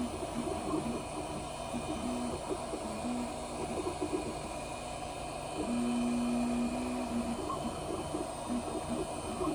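3D printer running a print: its stepper motors sing in short pitched notes that change with each move of the head, with one longer steady note about six seconds in, over the steady hiss of the printer's fans.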